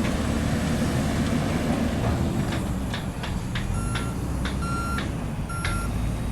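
John Deere 310J backhoe's diesel engine running under load, its revs dipping and rising, with a few sharp knocks partway through. From about four seconds in, a reversing alarm beeps roughly once a second.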